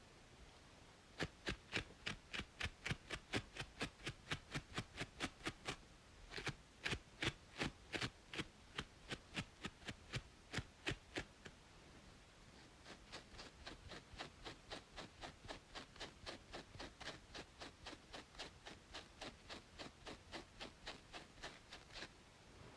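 Rapid rhythmic scratching on a scalp between braids, about four to five strokes a second. It comes in a louder run, pauses briefly about eleven seconds in, then continues more softly.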